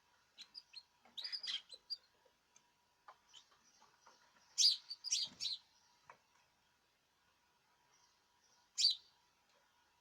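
Caged birds chirping in short, sharp calls, coming in clusters about a second in and around four and a half seconds in, with one more near the end.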